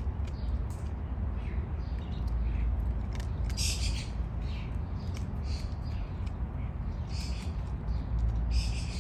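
Birds chirping in short high calls, one every second or so and loudest twice, over a steady low rumble.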